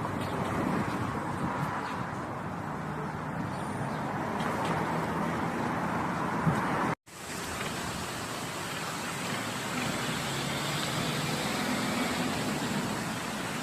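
Steady rushing, rumbling noise with a faint low hum. It cuts out abruptly about seven seconds in and resumes a moment later.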